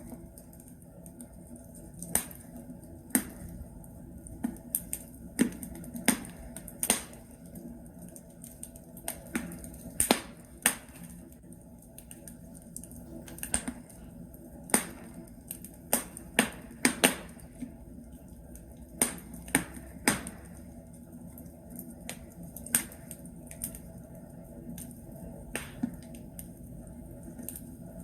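Wood logs burning in a fireplace, crackling with irregular sharp pops about every second over a low steady hiss.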